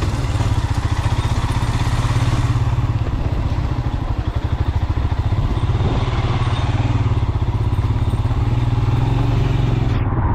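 Motorcycle engine running at steady low revs, with a fast even pulse, as the bike is ridden over an unpaved track.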